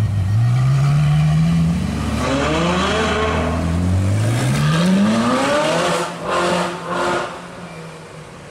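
Ferrari supercar engines accelerating hard away, led by the silver F12berlinetta's V12. The pitch climbs steeply again and again with gear changes in between. Near the end come two short loud bursts, then the sound fades into the distance.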